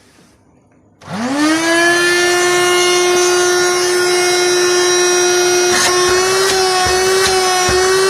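National MC 4400 vacuum cleaner motor, repaired with new bearings, switched on about a second in: it spins up with a rising whine and then runs at a steady high-pitched hum. A few short clicks come through near the end.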